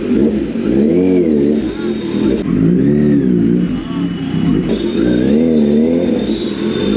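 Kawasaki Z900 inline-four engine on the move, its pitch swelling up and falling back three times, about a second in, around three seconds in and again near the end, as the throttle is opened and eased.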